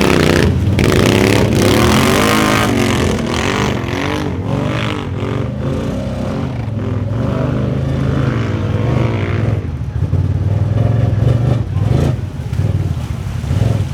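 4x4 ATV engines revving hard under load, the pitch rising and falling repeatedly with the throttle.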